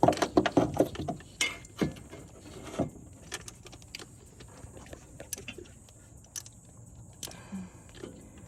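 Small metallic clinks and taps of hand tools and parts being worked on a Land Rover engine: a quick run of sharp clicks in the first second or so, a few more knocks up to about three seconds in, then only scattered faint ticks.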